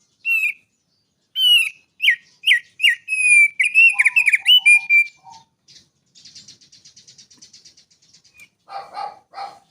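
Thick-billed heleia (opior paruh tebal) singing. It gives a run of clear whistled notes that slide and dip, then a rapid buzzy trill of about nine pulses a second, then a few harsher calls near the end.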